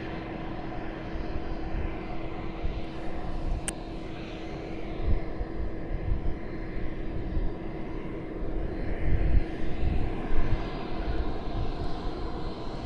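A steady engine hum with one constant tone running through it, broken by low rumbling gusts of wind on the microphone, the strongest about five seconds in and again near the end.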